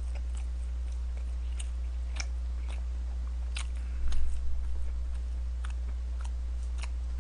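A person chewing a mouthful of food with the mouth closed, small wet clicks scattered throughout, over a steady low hum. There is a brief dull bump about four seconds in.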